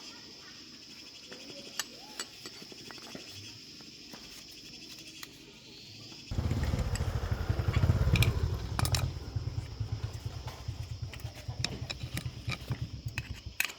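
Crickets chirp steadily, then about six seconds in an old scooter's small engine bursts into loud running with a rapid putter, revs up briefly, and cuts off abruptly near the end.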